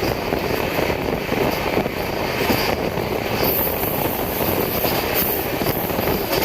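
Steady running noise of the Humsafar Express passenger train in motion, heard from on board: a continuous loud rumble and rush with no distinct knocks or horn.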